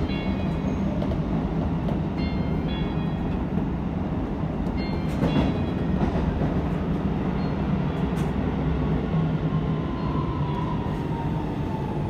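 Keisei 3000 series electric train heard from the driver's cab as it runs into a station: a steady rumble of wheels on rail with scattered clicks over rail joints and points, and from about two-thirds in a thin motor whine that slowly falls in pitch as the train slows.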